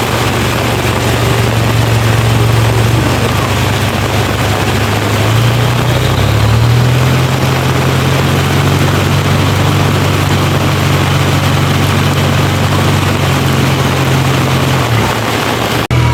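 A Suzuki off-road 4x4's engine running under steady load. Its pitch rises about six seconds in, holds, and eases off just before an abrupt cut near the end.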